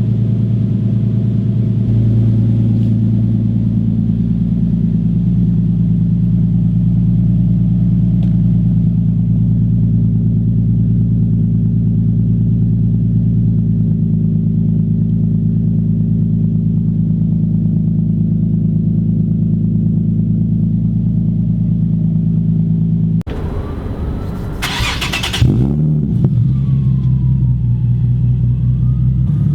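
Exhaust note of a Nissan 370Z's 3.7-litre V6, running through catless test pipes and a single-exit race exhaust. The engine idles steadily for most of the time. Near the end, after an abrupt cut, the throttle is blipped twice, and the revs rise and fall each time.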